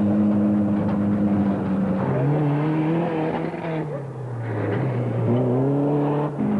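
Off-road race car engines running: a steady note at first, then engine pitch drops off and climbs again as the cars come off and back on the throttle.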